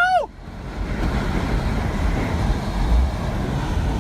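A steady, loud rushing rumble, heaviest in the low end, of wind and water or traffic; a brief cry that rises and falls in pitch is heard right at the start.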